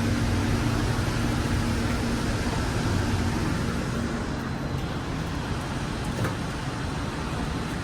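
Steady rumble and hiss of a Hudson-Bergen Light Rail train car, with a faint hum that fades out about three seconds in and a single click near the end.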